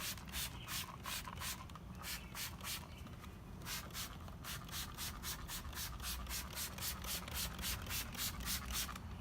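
Brush scrubbing inside the barrel of a car wheel coated in all-purpose cleaner, in quick back-and-forth strokes of about four a second.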